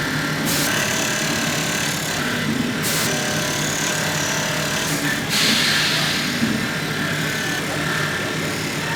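Workshop machinery in a boot-making shop running steadily, with short bursts of hiss about half a second, three seconds and five seconds in.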